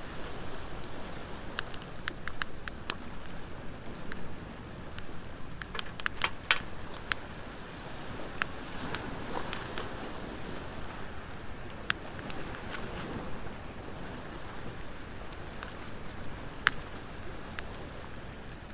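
Wood fire crackling, with scattered sharp pops and snaps and one louder pop near the end, over the steady wash of ocean waves.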